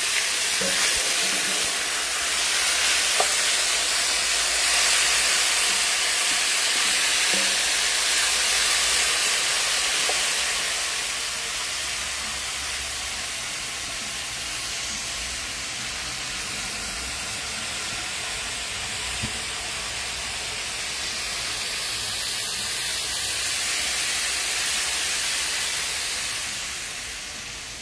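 Seasoned chicken sizzling in hot oil in a cooking pot: a steady, dense sizzle that is loudest over the first several seconds, eases a little, then fades near the end, with a few faint clicks.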